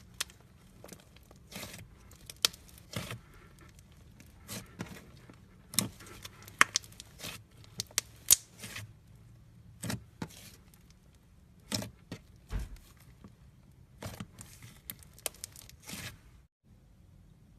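Foam-bead slime being squeezed and worked, giving irregular sharp crackles and pops, some in quick clusters, that stop briefly near the end.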